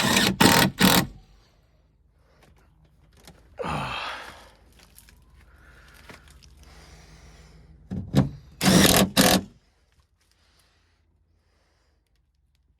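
Clunks and clatters of hand tools and metal door parts during work on a truck door's handle and latch. There are several sharp knocks at the start, a short scrape about four seconds in, and another cluster of loud knocks about eight to nine seconds in.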